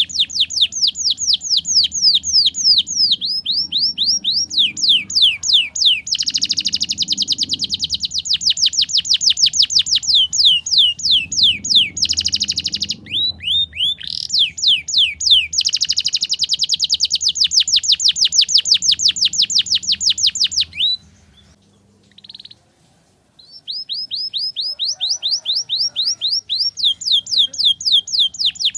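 Domestic canary singing long, rapid trills of repeated high, falling notes, the 'ngriwik' song used as a master recording for young canaries learning to sing. The song breaks off for about two seconds roughly three quarters of the way through, then resumes.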